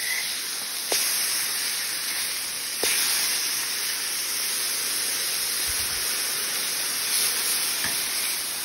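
Ground-chicken patties sizzling steadily on a propane flat-top griddle held at about 400 °F. The sizzle jumps louder about one and three seconds in as patties are turned with a metal spatula.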